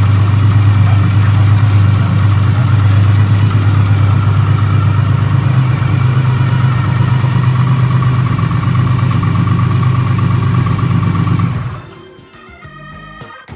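Car engine running steadily and loudly with a deep, even low note. It stops abruptly about twelve seconds in and soft plucked-string music takes over.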